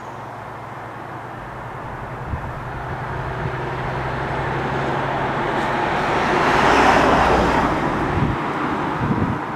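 Diesel train passing: a steady low engine hum under a broad running noise that grows louder to a peak about seven seconds in, then eases off.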